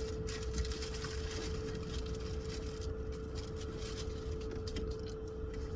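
Steady low rumble with a constant hum, typical of a running vehicle heard from inside while parked, with scattered small clicks and rustles of food and packaging being handled.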